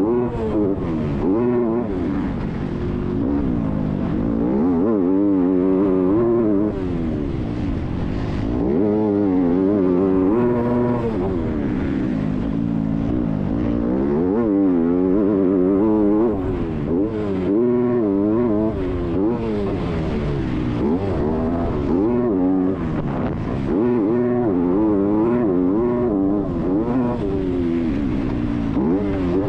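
Motocross bike engine revving hard, its pitch climbing and dropping again and again as the rider works the throttle and shifts gears.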